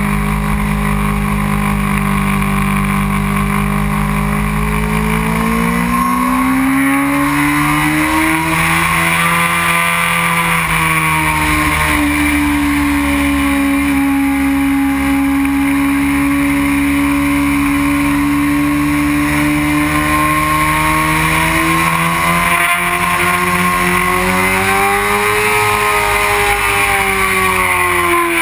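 A 2001 Honda CBR600 F4i's inline-four engine running hard at track speed, heard from a camera mounted above the handlebars. The revs climb a few seconds in, hold steady through the middle, then rise and drop again near the end.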